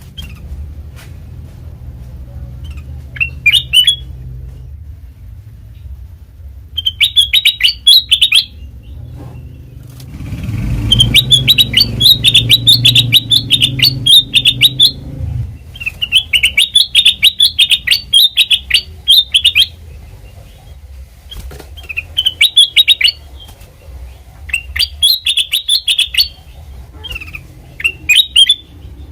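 Kutilang emas, a bulbul, singing repeated phrases of quick, bright chirping notes, each phrase one to four seconds long with short pauses between, as a lure recording. A steady low hum runs underneath and grows louder for a few seconds in the middle.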